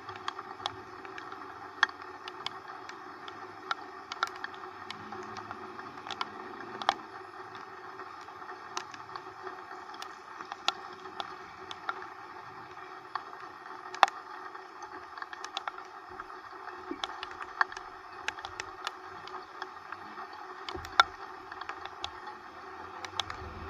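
Rain with a steady hiss, broken by irregular sharp ticks of drops striking close by.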